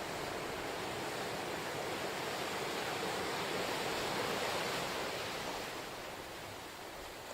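Ocean waves breaking on a shore, a steady wash of surf that swells about halfway through and then eases back.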